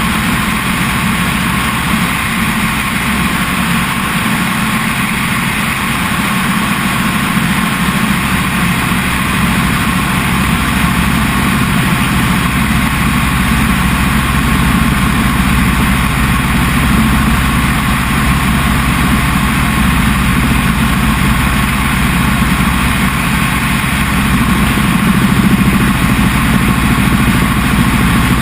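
Helicopter in flight: a steady drone of engine and rotor, with a few steady low tones under a broad rushing noise.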